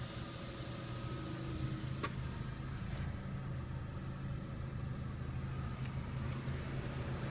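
Car engine idling steadily, a low even hum, with a single sharp click about two seconds in.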